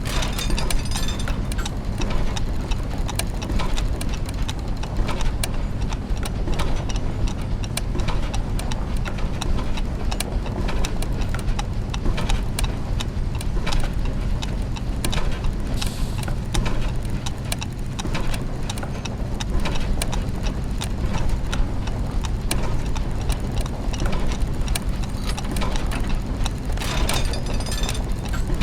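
Clockwork mechanisms and gears ticking and clicking in a dense, irregular clatter over a steady low mechanical hum, with brief busier bursts of clicking near the start and near the end.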